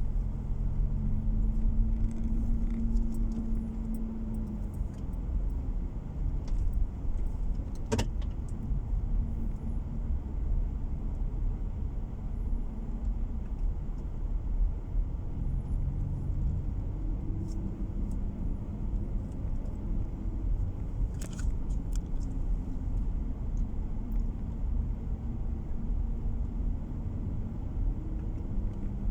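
Car engine and road noise heard from inside the cabin while driving, the engine note rising and settling a few times as speed changes. One sharp click sounds about a third of the way in, and a few small ticks and rattles near the two-thirds mark.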